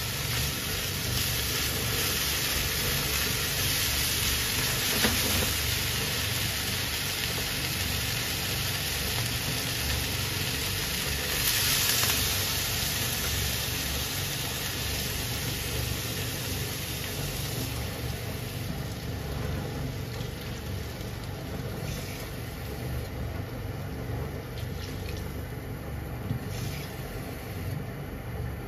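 Chopped vegetables and chikuwa sizzling in oil in a frying pan over a gas burner, with a steady low rumble underneath. A little past the middle the sizzle dies down to a quieter bubbling with a few small pops, as the pan now holds water.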